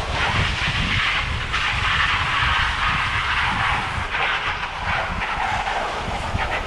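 Steady hiss of bicycle tyres rolling fast on the road, with wind buffeting the action camera's microphone in a low, fluttering rumble.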